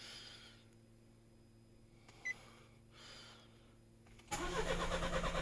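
A short electronic beep, then about four seconds in a Nissan Qashqai diesel engine is cranked over on the starter motor with a steady, even pulsing and does not catch. The car won't start after an ECU remap, which the tuner puts down to an incorrect DPF solution.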